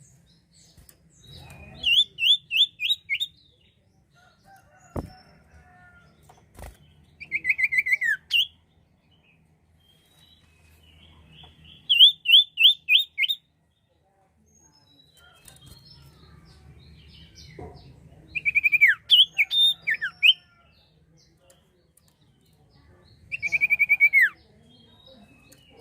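Sirtu songbird singing in short bursts of rapid, high whistled notes, some phrases a quick run of rising notes and others slurring downward, repeated about every five seconds. Two sharp clicks come near the middle, and a faint low hum runs between the phrases.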